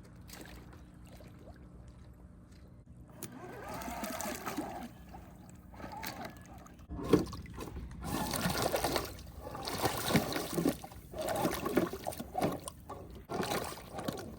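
Plastic box fan blades fitted as wheels on an RC crawler churning and splashing in water, in irregular surges that start a few seconds in and grow louder about halfway through.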